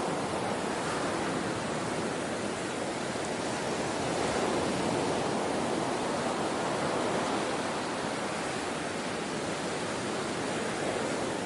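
Steady rush of ocean surf, swelling slightly about halfway through.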